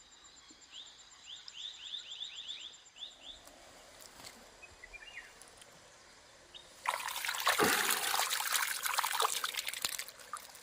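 Water splashing and trickling for about three seconds, starting a little past the middle. Before it, in the first few seconds, a bird gives a run of quick rising chirps over a faint steady insect tone.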